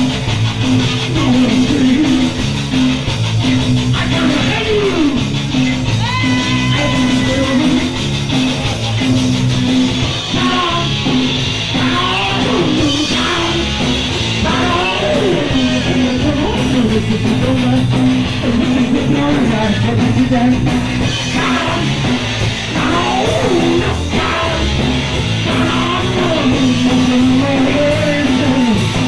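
Punk rock band playing a song: distorted guitar, bass and drums, with a voice singing over the band.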